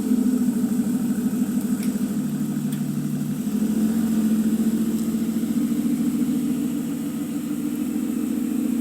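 Mitsubishi Montero SUV engine idling steadily after being started.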